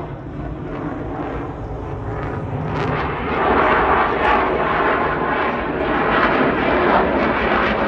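Airplane engine noise from an aircraft flying by, a rushing drone that grows louder about three seconds in and stays loud.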